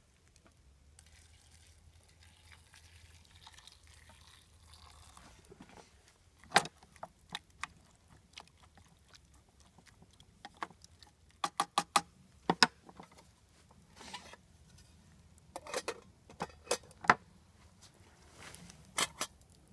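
Sharp clicks, clinks and knocks of a metal canteen cup and camp cooking gear being handled, starting about six seconds in. They are scattered, with a quick run of about five clicks around the middle and a few more clusters near the end.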